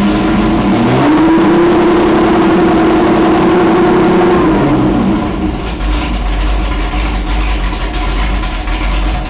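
1964 Lotus 23's Buick 215 aluminium V8 running on open exhaust headers. About a second in it is revved up and held at high revs for about three seconds, then drops back to a deep idle.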